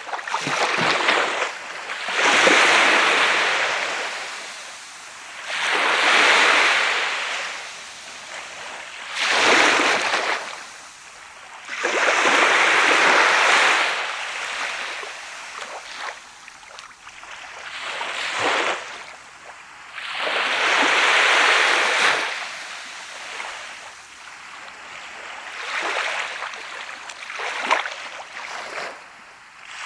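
Sea waves breaking and washing up on a sand beach, one after another every few seconds, each rushing in and fading away.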